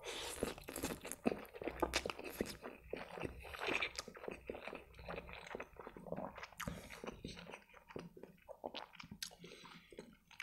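A man chewing a mouthful of spaghetti with tomato sauce, with many irregular mouth clicks and smacks.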